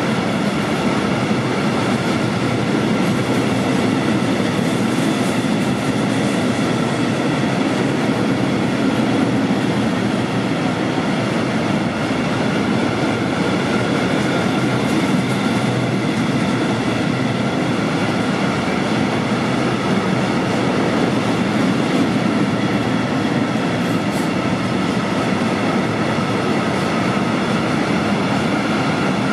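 Long freight train of open coal wagons passing close by: a loud, even rumble of the wagons' wheels on the rails, with a steady whine above it and no change in pace.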